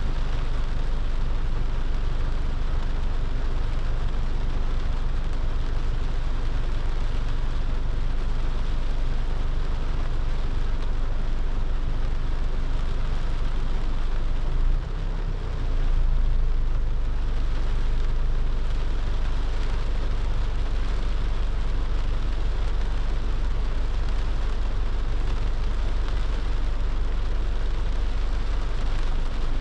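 A car driving in the rain: a steady low rumble of engine and road under the hiss of rain and wet tyres. About halfway through the sound dips briefly, then swells back with more hiss.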